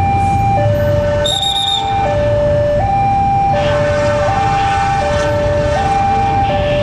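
Level-crossing warning alarm sounding a two-tone signal, alternating between a higher and a lower tone about every three-quarters of a second, warning that a train is coming. A brief high whistle-like tone sounds about a second and a half in, and rumbling noise of an approaching train grows from about halfway.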